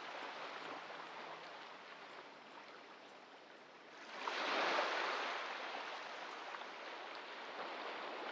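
Gentle surf washing onto a sandy beach: a soft, steady wash, with one wave swelling about four seconds in and slowly fading.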